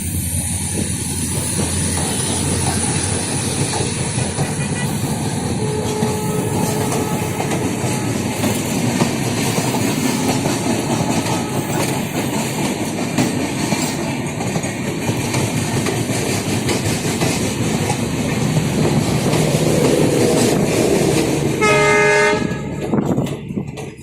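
Passenger train running past at speed, its wheels clattering steadily over the rail joints. A short horn blast sounds about 22 seconds in, and the train noise then falls away quickly.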